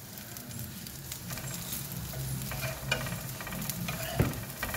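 Patra slices and sesame seeds sizzling in oil on a dosa tawa, with scattered small crackles and the clicks and scrapes of a metal fork turning the pieces over; a sharper knock comes near the end.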